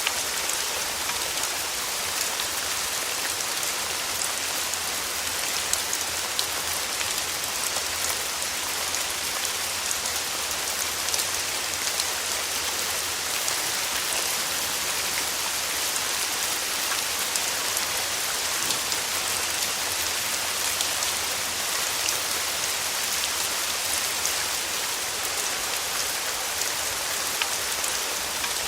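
Steady rain falling on a surface, a dense even hiss dotted with individual drop taps, over a faint low hum.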